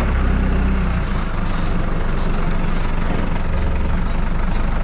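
A heavy farm-vehicle engine running steadily close by, its low note shifting slightly a couple of times.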